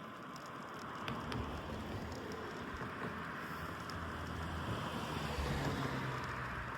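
Wind rushing over the microphone of a phone mounted on a moving bicycle, with road noise. Under it runs a low hum that grows louder about five seconds in.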